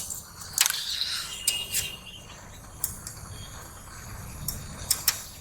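Scattered sharp clicks and clinks of tools and metal parts being handled, about eight over a few seconds, over a low steady rumble.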